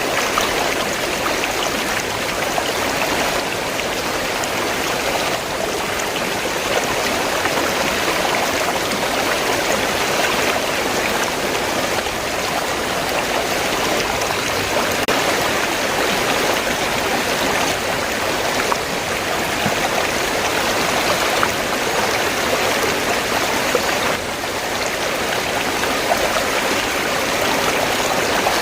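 River water flowing and rushing steadily, a continuous splashing hiss with faint droplet ticks.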